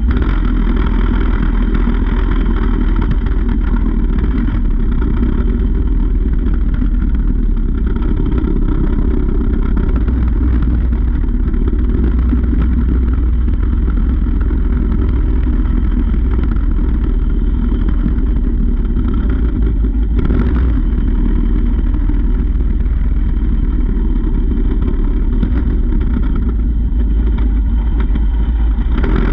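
Mini bike's small engine running steadily under way, heard through a GoPro mounted on the bike itself, with a heavy low rumble.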